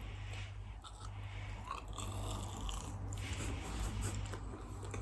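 Close-miked chewing and biting of food during a mukbang eating show, with soft wet mouth sounds, over a steady low electrical hum.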